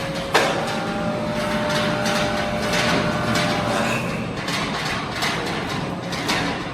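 Sawmill machinery running: a sharp knock about a third of a second in, a steady whine that stops about four seconds in, then repeated clatter.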